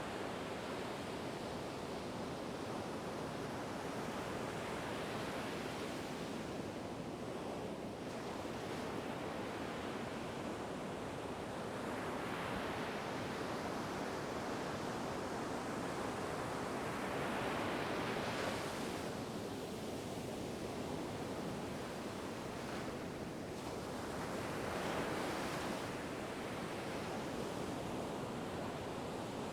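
Ocean surf: a steady rushing wash of waves, with several swells rising and falling as breakers come in, about every six or seven seconds in the second half.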